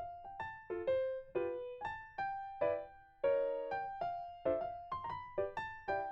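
Background music: a soft piano or electric piano melody of separate notes with chords, each note fading after it is struck.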